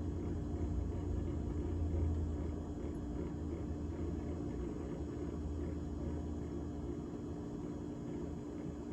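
GE GTH18XCTZRBB refrigerator running: a steady mechanical hum with a low rumble underneath that eases about seven seconds in.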